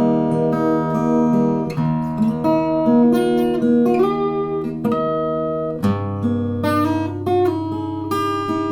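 Stafford SLG-360E acoustic guitar being played, with chords ringing out and changing every second or so. A deep bass note comes in about six seconds in and keeps sounding under the chords.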